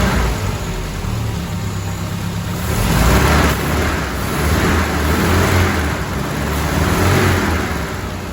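Mercedes-Benz W124 230E's four-cylinder petrol engine running and being revved, swelling about three seconds in and again a couple of seconds later, then easing off near the end.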